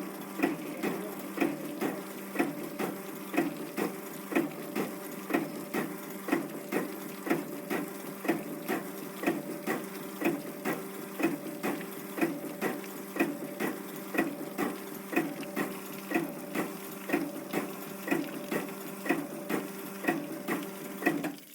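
Rühle PR15 meat and poultry brine injector running: a steady motor and pump hum under a regular clacking of the machine's strokes, about two a second. It shuts off abruptly near the end.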